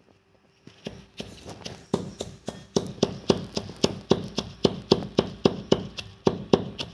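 Knife chopping food on a cutting board in a steady rhythm of about four strokes a second, starting about a second in.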